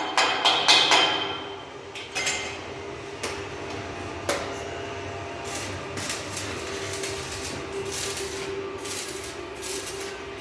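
Rapid hammer blows, about four or five a second, that stop about a second in, followed by single knocks about once a second and then lighter scattered taps.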